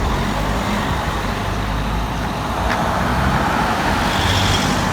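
Transit van driving up a hill: steady engine hum and road noise.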